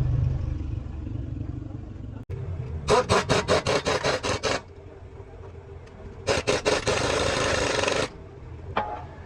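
Quick rasping, scraping strokes, about six a second for under two seconds, then a steadier rasp lasting about two seconds and a short burst near the end, over a low engine rumble that fades early on.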